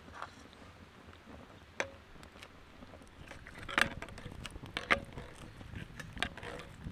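Irregular knocks and clicks of gear being handled, with a few sharper knocks about halfway through, some leaving a brief ring.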